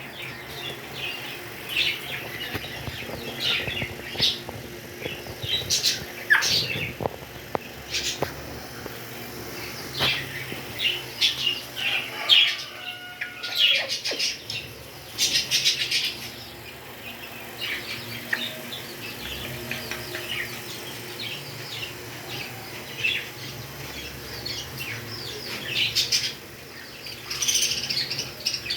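Pet parrots chirping: many short, high chirps in quick, uneven succession.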